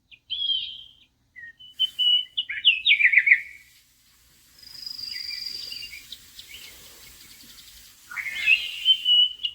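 Small songbirds chirping and singing: several short phrases of quick trills and chirps, with one long high whistled note near the middle.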